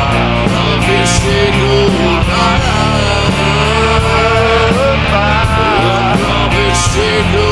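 Stoner rock band playing: electric guitar over bass and drums.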